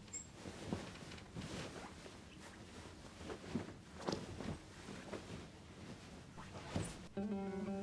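Soft, irregular rustling with small taps and knocks of things being handled. Acoustic guitar music begins near the end.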